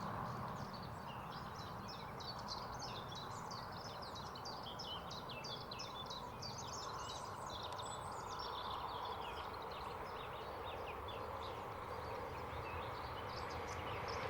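Several songbirds singing with quick, rapid chirps throughout, over a steady low background noise.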